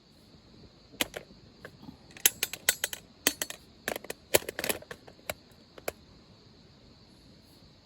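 A quick, irregular run of sharp clicks and taps, like small hard objects being handled, lasting about five seconds. Under it is a steady high insect chorus.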